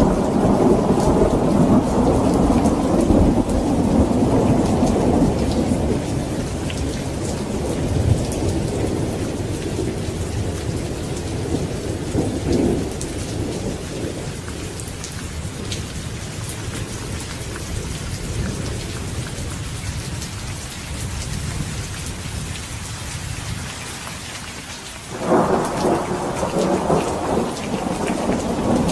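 Steady rain with thunder. A heavy rumble of thunder dies away over the first several seconds, the rain hisses on with fine drop ticks, and a new thunderclap breaks in suddenly near the end and keeps rumbling.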